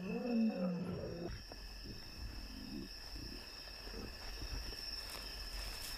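A lion's calls, each rising and falling in pitch, stop about a second in. After that, night insects keep up a steady, high-pitched chirring.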